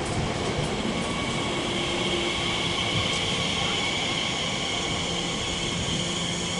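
Elizabeth line Class 345 electric multiple unit running slowly into the platform as it comes in to stop, with a steady high whine over the rumble of the train.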